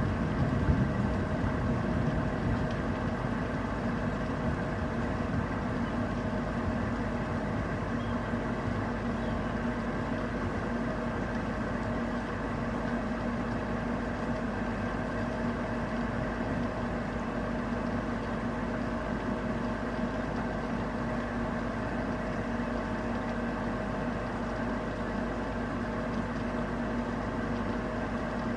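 Steady thunderstorm rain with a constant low mechanical hum; a low rumble dies away in the first couple of seconds.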